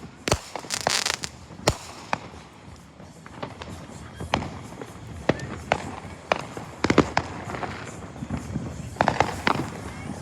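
Fireworks going off: sharp bangs and pops at irregular intervals, with a short hissing burst about a second in and quick clusters of cracks around seven and nine seconds in.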